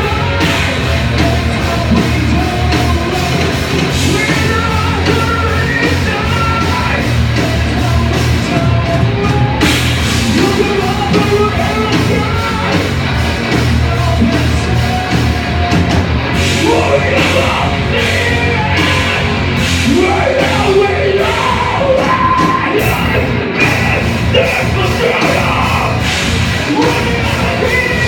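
Live rock band playing loudly, with shouted vocals over the music.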